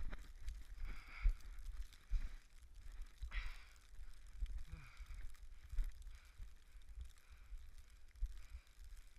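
A runner's heavy breaths, a soft exhale every second or two, over a low rumble and thumping on the microphone.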